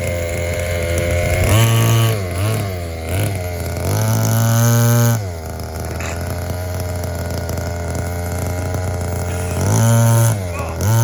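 Two-stroke gas engine of a Maverick Blackout MT RC monster truck idling, blipped up to high revs several times, with one rev held for about a second.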